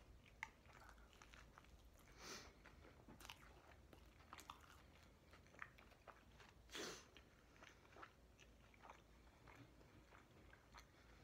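Faint chewing of a burger: soft mouth clicks and smacks, with two brief, louder puffs of noise about two and seven seconds in.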